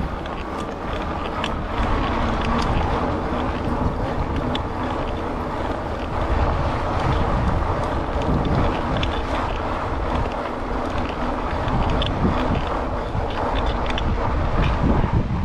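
Wind rushing over a chest-mounted action camera's microphone while riding an e-bike, with a steady low rumble and scattered small ticks and rattles.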